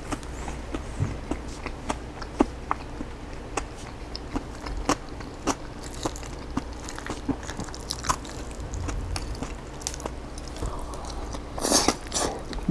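Close-up chewing of a crunchy chicken salad with raw cabbage, green onions and jalapeño: irregular wet clicks and crunches a few times a second, with a louder crunch near the end.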